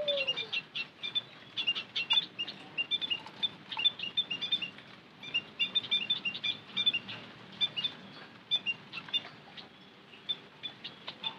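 White-headed munias chirping: many short, high chirps in quick irregular clusters, like a small flock calling together.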